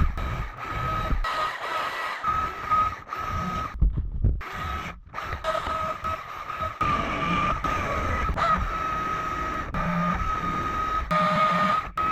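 Chainsaw running at high revs while carving wood, a steady high whine with shifting load, broken twice by abrupt short gaps around four to five seconds in.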